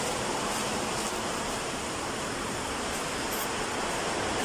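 Steady, even hiss of workshop background noise, with a few faint high ticks.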